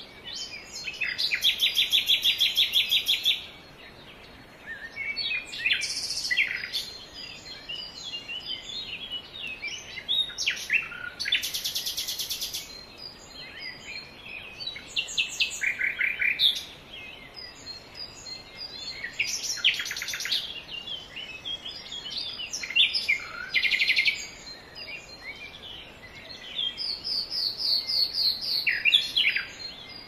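Several birds singing and calling: short chirps and whistles mixed with fast trills of rapidly repeated notes lasting a second or two, which come back several times.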